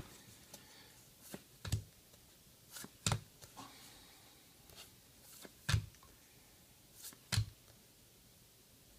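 Trading cards being handled and flipped through one at a time: a few separate sharp taps and flicks of card stock, one every second or two, with quiet handling between.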